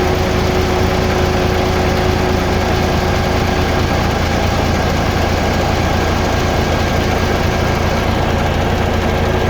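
Mercedes-Benz truck diesel engine idling steadily.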